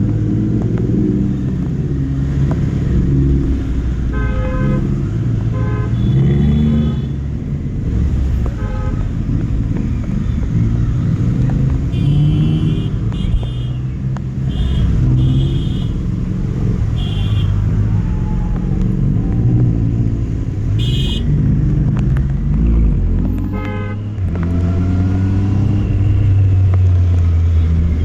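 Triumph Street Triple RS inline three-cylinder engine running under way, its pitch rising and falling with throttle and gear changes. Vehicle horns toot briefly several times.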